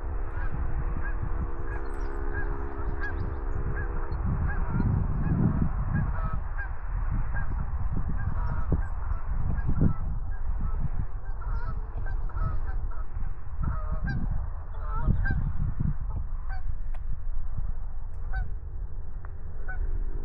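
Canada geese honking, many short calls repeating throughout, over a heavy low rumble that swells several times.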